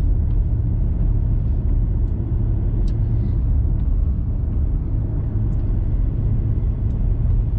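Steady low rumble of a diesel vehicle's engine and tyres heard from inside the cabin while it climbs slowly uphill.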